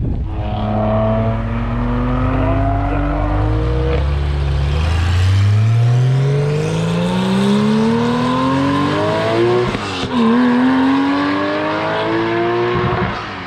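Car engine accelerating hard through the gears: the pitch climbs in long sweeps, drops at an upshift about ten seconds in, then climbs again.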